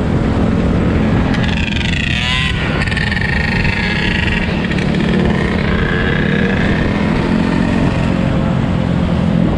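Dirt bike engines running loudly, with a rising rev about two seconds in.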